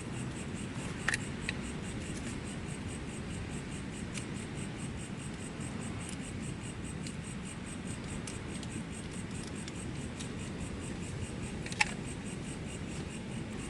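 Insects chirping faintly over a steady low rushing background, with two sharp clicks: one about a second in and a louder one near the end.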